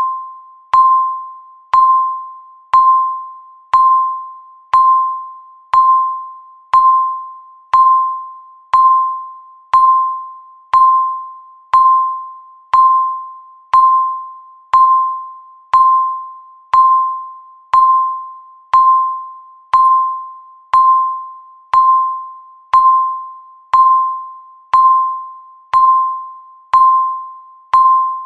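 Countdown timer's tick sound: a short, bell-like electronic ping about once a second, each dying away before the next, in a steady unbroken rhythm.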